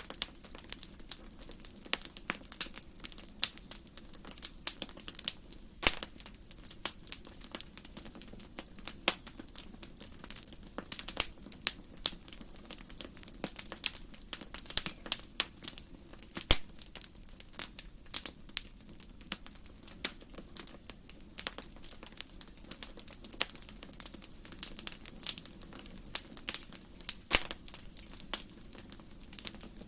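Wood fire burning in a fireplace, crackling and popping steadily, with irregular sharp snaps scattered throughout over a faint low hum.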